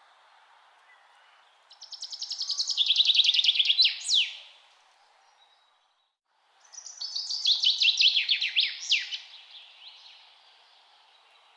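A songbird singing two trilled phrases about two seconds apart. Each is a rapid run of high notes that ends in a sharp downward sweep, over faint steady background noise.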